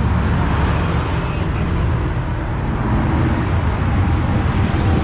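A vehicle engine running steadily, with road noise.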